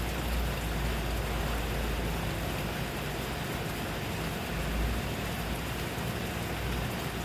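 Steady rain falling, an even hiss with faint drop ticks, over a low rumble that swells briefly about five seconds in.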